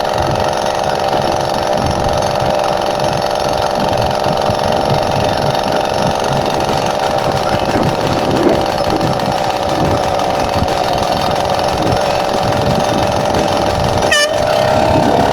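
Motorcycle engine running steadily under way, with a droning tone and a rapid rough pulse over rushing wind noise.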